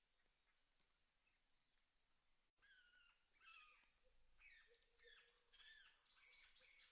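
Faint nature ambience: a steady high insect trill, then after a brief drop-out about two and a half seconds in, birds calling in short, repeated arching chirps.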